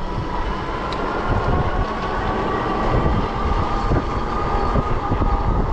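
A vehicle's steady rumble with a whine that slowly rises in pitch.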